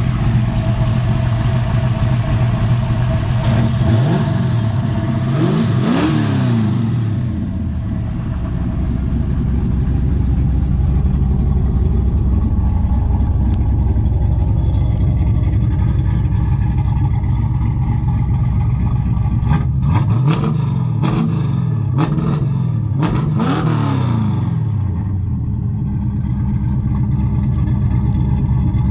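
Fox-body Mustang's 347 stroker V8 with a 750 carburetor and F303 cam, idling cold just after a cold start. It is revved in quick blips around four to six seconds in and several more times between about twenty and twenty-four seconds, settling back to idle after each.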